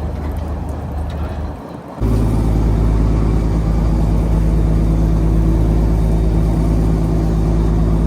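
Fishing boat's engine running with a steady low hum; about two seconds in it dips briefly, then comes back louder and steadier.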